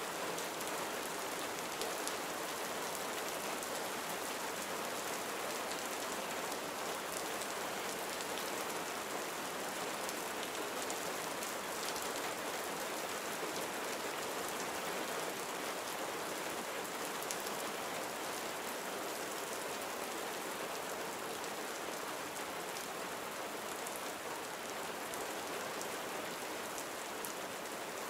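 Steady gentle rain falling on surfaces, an even hiss with scattered faint drop ticks.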